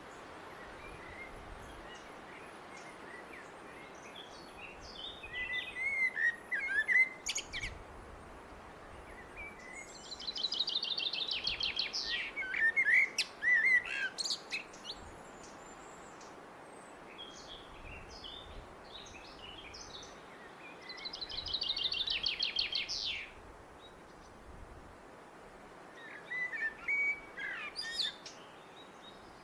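A blackbird singing in separate phrases of warbling notes with pauses between them. Two phrases carry a fast, high trill lasting about two seconds, and the song sits over a steady background hiss.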